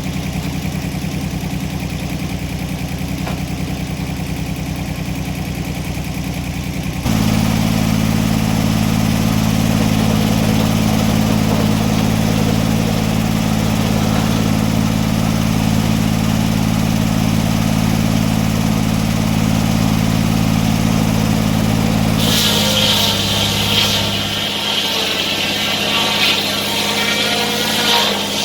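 Sawmill engine running steadily, stepping up to a louder, faster speed about seven seconds in. Near the end the engine note drops and a high-pitched whine joins it.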